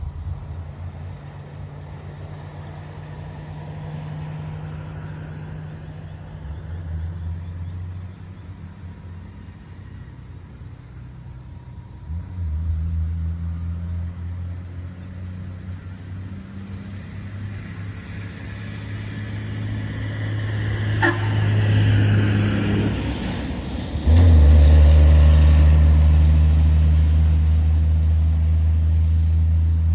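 Dump truck engine running with a steady low drone that grows in stages. It swells through a noisy rise and then jumps suddenly louder about three-quarters of the way in, staying loud and steady to the end.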